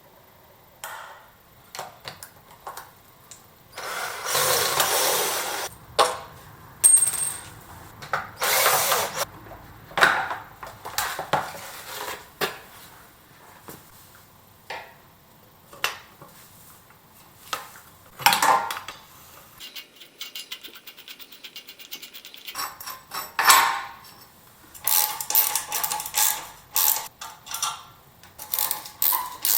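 Hand-tool work on a motorcycle: scattered metal clicks, knocks and clanks, with a few longer rasping or whirring bursts, the longest about four seconds in.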